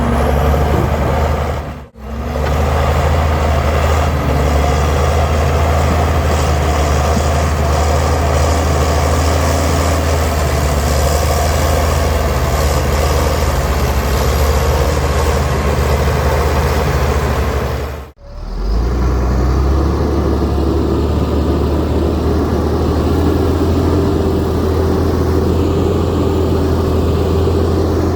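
Heavy diesel engine of earth-moving machinery running steadily, broken by two brief drop-outs where the recording cuts, about two seconds in and again after about eighteen seconds.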